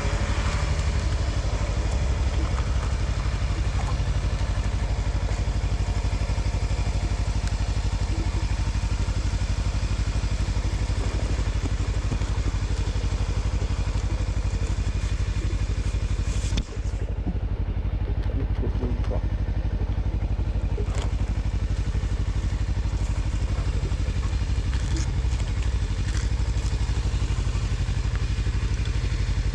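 Motor vehicle travelling on a road: a steady engine and road rumble with a continuous hiss of wind and rain. The sound briefly cuts out about 17 seconds in and is duller for a few seconds after.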